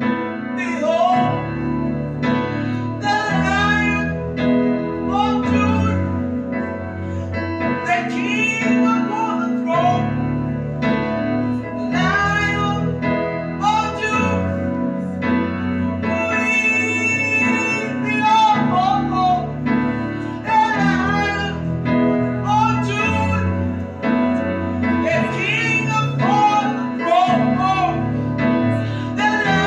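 Gospel worship song: a solo voice sings long, sliding phrases over sustained keyboard chords and a bass line that changes every few seconds.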